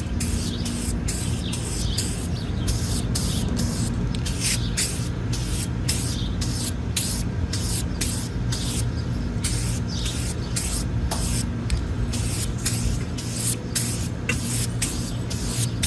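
Paint being sprayed onto a steel helmet in a long series of short hissing bursts, roughly two a second, over a steady low hum.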